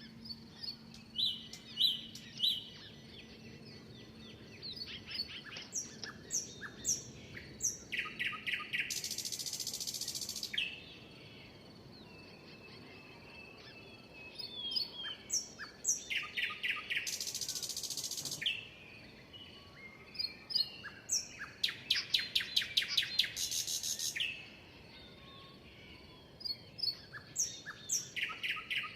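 Songbird singing: phrases of quick, high, falling chirps that end in a long buzzy trill, repeated every several seconds, with softer chirps in between.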